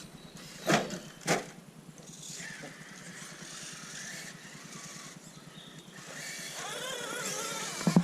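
Two sharp knocks, then the whine of a small electric RC crawler motor rising and falling in pitch near the end.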